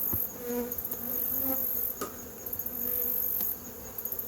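Honeybees buzzing around an opened hive, stirred up after being disturbed and smoked, with single bees droning past now and then. Behind them a high, pulsing insect chorus switches on and off about every second and a half.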